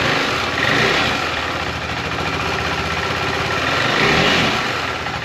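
KTM 390 Adventure's single-cylinder engine running just after starting, on its stock exhaust with the pre-muffler still fitted. It idles with two brief rises in revs, about half a second in and about four seconds in, and sounds pretty loud.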